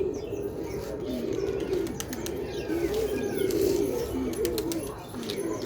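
A flock of domestic pigeons cooing, many overlapping low calls at once, with a few higher chirps and scattered sharp clicks among them.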